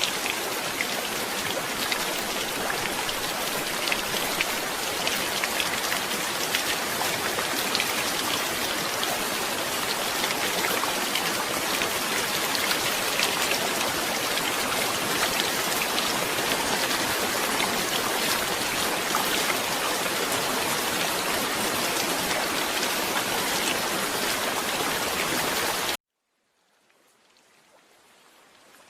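Steady heavy rain, a dense hiss of many close drops. It cuts off suddenly near the end, then fades back in faintly.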